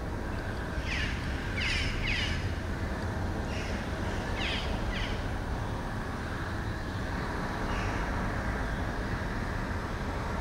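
A bird calling in short, rough calls, about six in the first five seconds and a few fainter ones later, over a steady low rumble.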